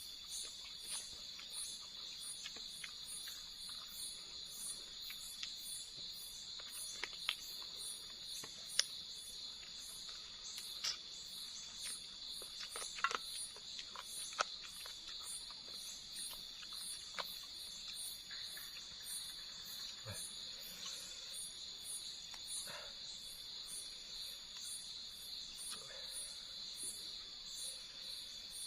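A chorus of insects: a steady high drone with an even, rapid pulse of chirps above it. A few short clicks and taps come through about a third to halfway in.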